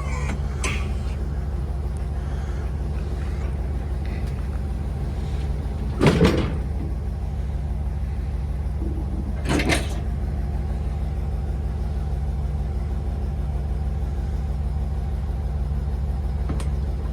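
Ford E350 box truck's engine idling with a steady low hum, interrupted by two short clatters about six and ten seconds in.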